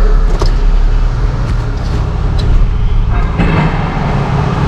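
Truck engine running steadily with a low rumble, with a few light clicks and knocks over it.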